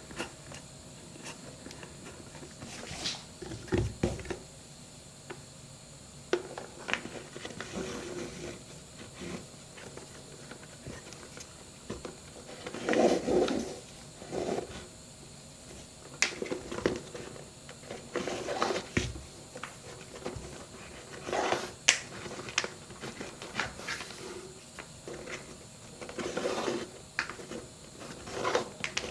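Leather work boots being laced and handled: irregular rustles of laces drawn through the eyelets, with scattered light clicks and a few soft knocks.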